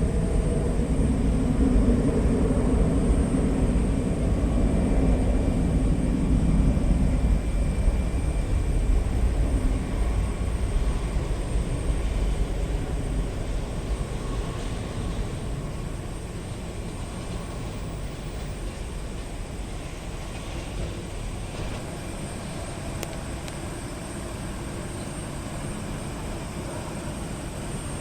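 Jet airliner's engines rumbling, loudest in the first few seconds, then fading away over about fifteen seconds to a steady lower background hum.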